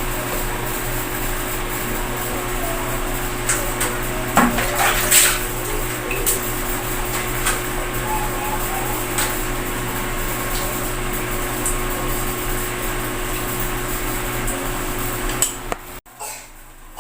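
Water splashing steadily as hair is wetted for a bath, with a few knocks and clatters about four to five seconds in. The sound drops away suddenly near the end.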